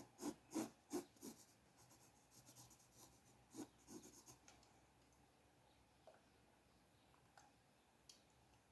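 Faint drawing strokes scratching on paper: a quick run of about five short strokes in the first second and a half, another few about three and a half seconds in, then a few scattered light ticks.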